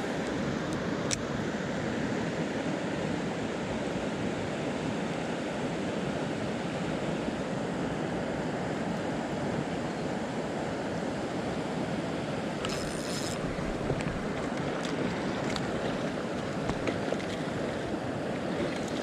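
Steady rush of moving water, with a few faint clicks and a short high-pitched whir about two-thirds of the way in.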